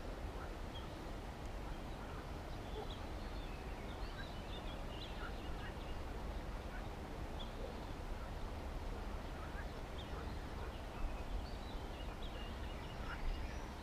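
Outdoor ambience of birds chirping in short, high, scattered calls over a steady low rumble, with a quicker run of chirps near the end.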